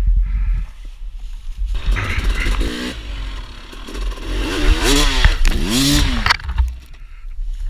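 Dirt bike engine revving. It starts about two seconds in, rises and falls in pitch twice near the middle, and drops away after about six seconds, over a heavy low rumble.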